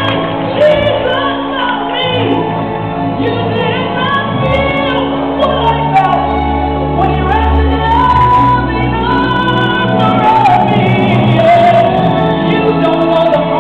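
Live gospel music: a woman's voice singing held, bending lines over a band with steady bass notes, echoing in a large hall.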